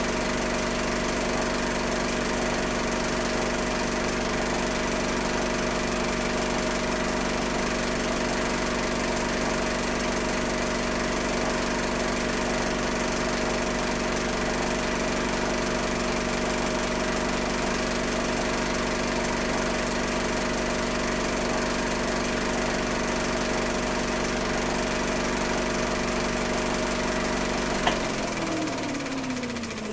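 Old film projector running with a steady mechanical whir and hum. About two seconds before the end a sharp click switches it off, and the motor winds down with a falling pitch.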